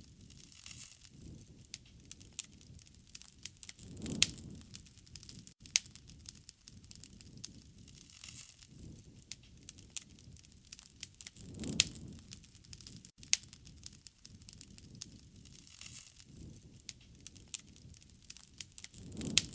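Wood fire crackling, with many sharp pops and snaps and a low rushing swell about every seven to eight seconds.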